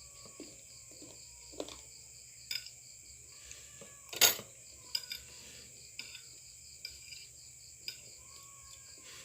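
Scattered clinks of cutlery against a plate or bowl, the sharpest about four seconds in, over steady cricket chirping.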